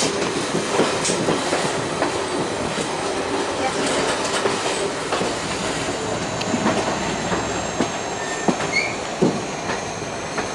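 Passenger train running, heard from an open coach door: a steady rush of wheel and wind noise with irregular clicks and clatter from the wheels on the rails, and thin high squeal from the wheels on the curve.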